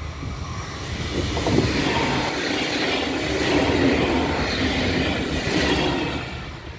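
erixx diesel multiple unit passing at close range: engine and wheel noise builds about a second in, stays loud through the middle, and fades near the end.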